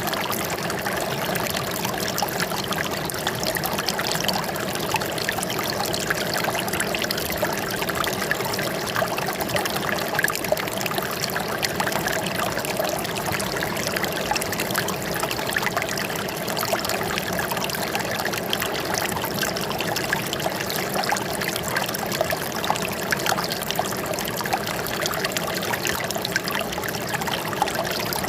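Running water trickling and splashing steadily, as a small stream or cascade flowing over rocks, with many small splashes through it.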